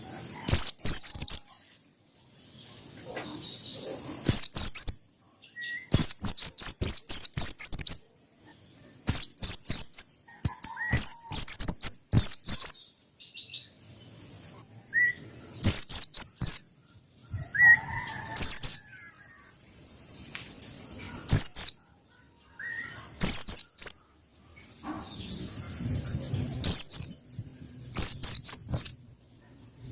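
A Pacitan white-eye (pleci) singing in short, high-pitched phrases of rapid up-and-down notes, one phrase every couple of seconds with brief pauses between.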